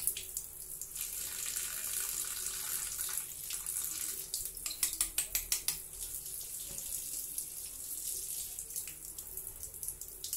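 Tap water running and splashing over the nozzle of a sanitizer spray gun as it is rinsed to clear a clog, with runs of quick clicks about halfway through and again near the end.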